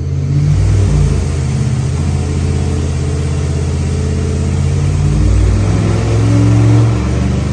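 Chevy 305 small-block V8 running loudly under load on a water brake dynamometer, its pitch shifting as it revs through a dyno pull.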